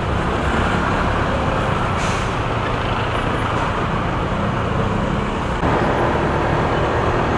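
Motorcycle ride noise: the engine running with steady wind and road rush, among traffic. There is a short hiss about two seconds in, and the noise grows louder about five and a half seconds in.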